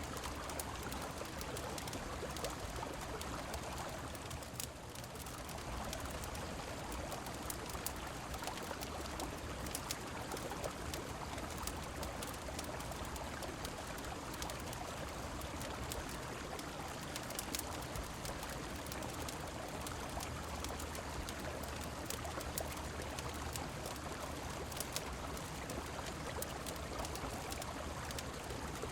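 Steady rush of flowing river water under falling rain, with scattered sharp clicks and crackles from a wood fireplace.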